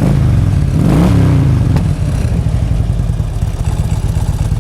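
2006 Harley-Davidson Ultra Classic's fuel-injected 96-cubic-inch V-twin running through fishtail-tip mufflers, the throttle blipped twice near the start so the revs rise and fall, then settling back to a steady idle.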